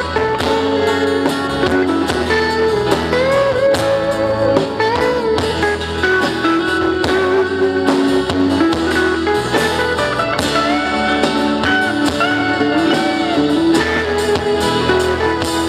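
Live band playing an instrumental passage, a guitar carrying a bending melody over the accompaniment.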